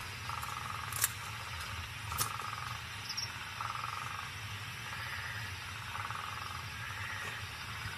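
Nile crocodile hatchlings calling from their nest under the ground: short buzzy chirps, about one a second, some higher-pitched near the end, with a few sharp clicks.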